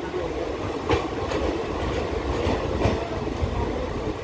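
Indian Railways passenger train running, heard from on board at the open door: a steady low rumble of the carriage with a few sharp clacks of the wheels over rail joints.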